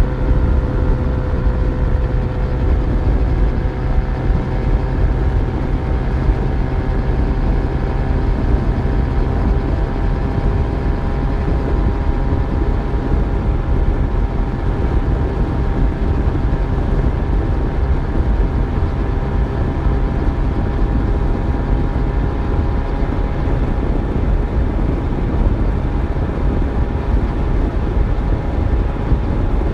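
Yamaha FZ1's inline-four engine running at a steady cruise while the bike is ridden, its pitch creeping slightly upward, over a constant rush of wind and road noise.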